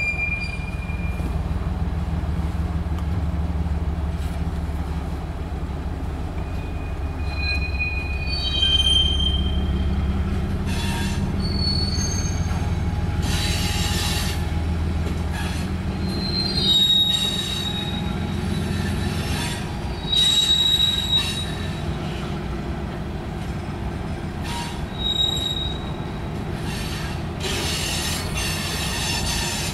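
Freight train of hopper cars rolling past. The diesel locomotive's low rumble is heaviest for the first half and then thins as the cars clatter by on the rails. Short high-pitched wheel squeals come every few seconds.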